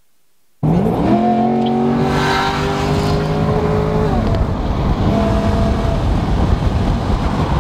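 Car engine pulling hard under acceleration, heard from inside the cabin over heavy road and tyre rumble. It starts abruptly about half a second in, climbs in pitch, holds a steady note, then eases off around four seconds in.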